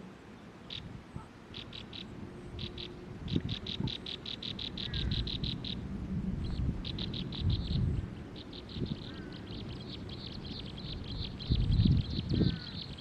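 A small bird calling in rapid series of short, high chirps, about eight a second. It starts with a few scattered notes and runs into long fast trills from about three seconds in. A second bird gives a few faint gliding whistles, and low rumbles and thumps come and go, strongest near the end.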